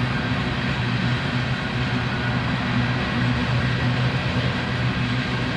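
Freight train of coal hopper cars rolling steadily past, a continuous low noise of steel wheels on rail.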